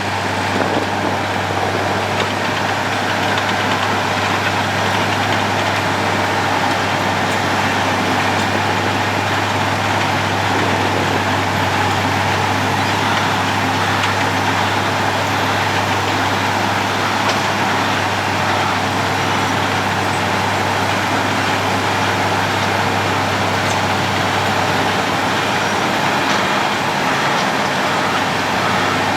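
Road planer (cold milling machine) at work, its diesel engine running with a steady low hum under a dense, even noise that does not let up.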